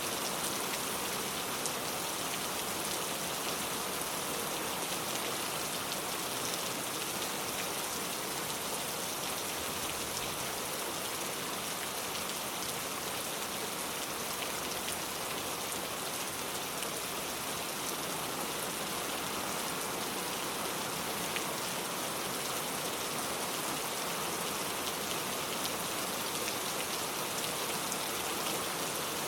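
Steady rain falling on a car, a dense even patter of individual drops striking its body that holds level throughout.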